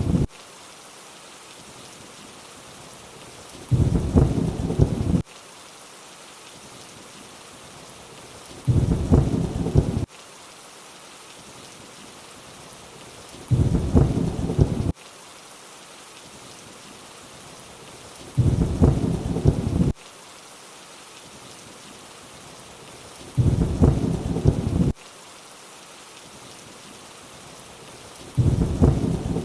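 Steady rainfall with short, deep rumbles of thunder about every five seconds, each lasting a second or two and starting and stopping abruptly.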